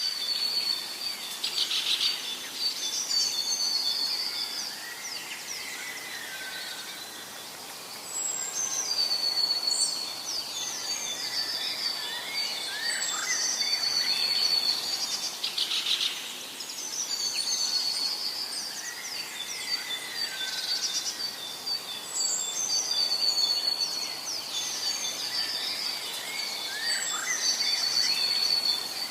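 Forest birds singing, several overlapping whistled phrases and trills over a steady background hiss, the same sequence of songs recurring about every 14 seconds.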